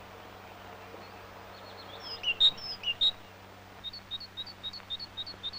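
Small bird chirping: a few scattered high chirps about halfway through, then a quick run of short, evenly spaced high notes, about four a second, near the end. A faint steady low hum runs underneath.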